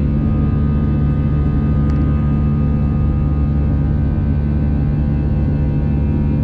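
Airbus A320-200 cabin noise in flight: a steady, unchanging drone of the jet engines and rushing air heard from inside the passenger cabin, a low rumble with several steady tones above it.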